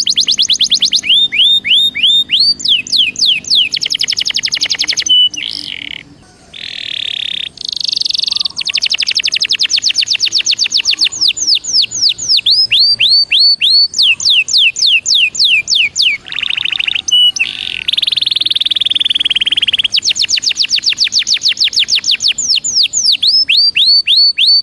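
Belgian canary singing: fast trills of repeated falling notes that switch from one trill to another every second or two, with a few short held notes and a brief dip about six seconds in.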